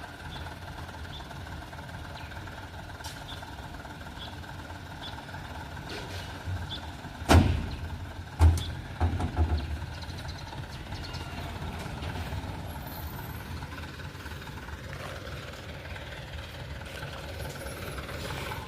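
Dump truck engine running steadily, with a loud knock about seven seconds in and a quick cluster of knocks a second or two later.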